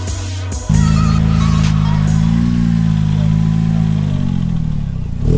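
A car engine pulling hard under acceleration. It cuts in suddenly under a second in, its pitch climbs and eases back, then drops near the end as it shifts up a gear. Background music plays briefly before the engine comes in.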